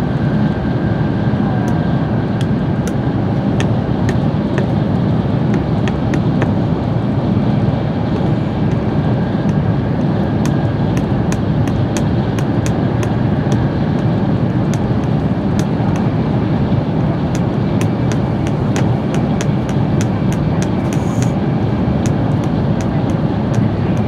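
Steady low rumble of a Shinkansen bullet train running at speed, heard inside the passenger cabin, with faint irregular ticks scattered through it.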